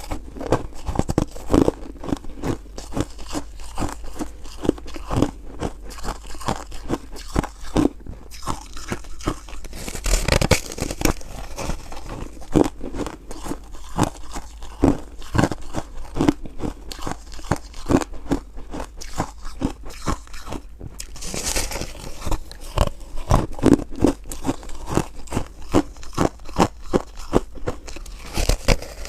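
A person chewing and crunching frozen foam ice in a steady run of sharp crunches, with two louder, hissier bites, one about a third of the way through and one about two-thirds through.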